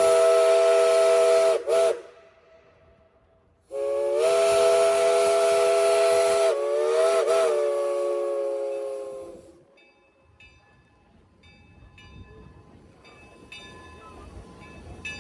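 Steam whistle of the Lima-built Shay geared steam locomotive No. 5, sounding a chord in two long blasts: the first ends about two seconds in, and the second runs from about four seconds to nine and wavers in pitch before dying away. Two long blasts are the standard signal that the train is about to move off. Faint, growing clanking follows near the end.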